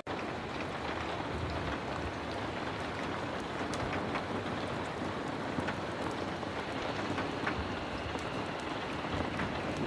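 Heavy rain falling steadily, a dense hiss with many scattered sharp drop ticks. The sound cuts out for an instant at the very start.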